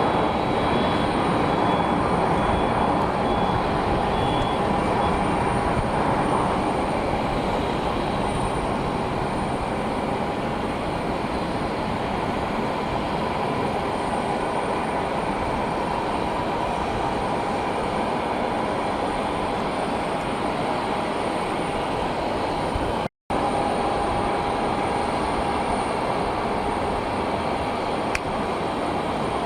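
Jet aircraft engines running steadily, a loud even rush with a faint whine in it; the sound drops out for a split second about two-thirds of the way through.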